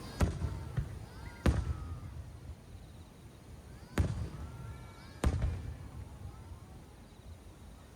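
Aerial fireworks shells bursting: four sharp booms, each with a rumbling tail. Two come close together, then a pause of over two seconds, then two more.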